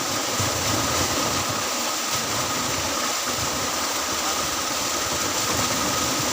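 An engine running steadily, with a constant high whine over an even hiss.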